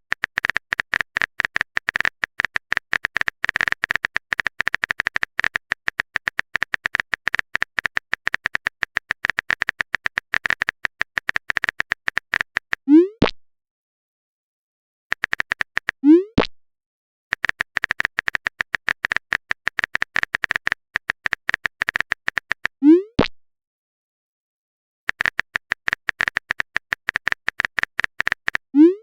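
Rapid phone-keyboard typing clicks in runs of a few seconds, each run ending with a short rising bloop of a message being sent. The bloop comes four times, the last at the very end.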